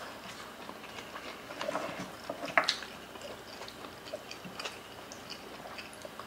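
Close-up eating sounds of people chewing mouthfuls of rice and oxtail kare-kare eaten by hand: scattered soft smacks and clicks, the sharpest about two and a half seconds in.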